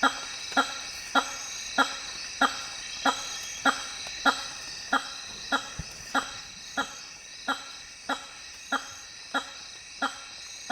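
Hammer-headed fruit bat giving its loud, honking call over and over, one short call about every 0.6 seconds in an even, slightly slowing rhythm. A steady high-pitched ringing runs underneath.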